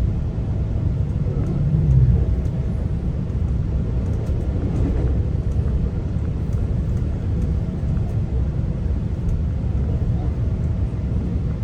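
Steady low rumble of a GO Transit commuter train running between stations, heard from inside a passenger coach, with a faint steady hum above it. The rumble swells briefly about two seconds in.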